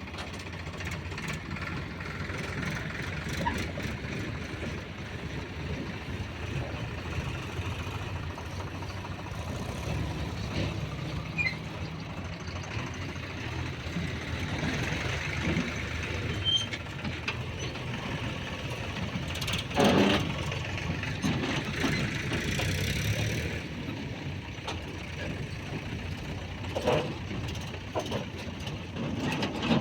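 Heavy vehicle engine running steadily, with a few short knocks about two-thirds of the way through and again near the end.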